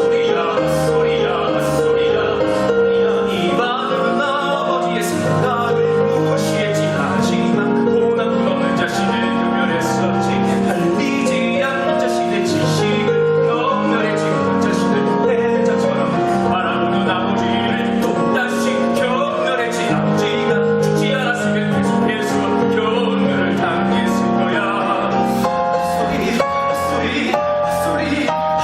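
A musical-theatre song sung live on stage, with singing over piano and band accompaniment.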